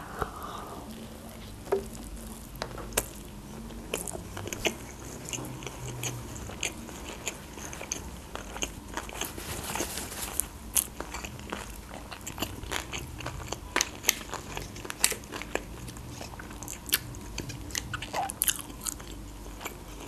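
Close-miked chewing of a mouthful of baked sushi roll, with many short wet mouth clicks and light crunches scattered irregularly.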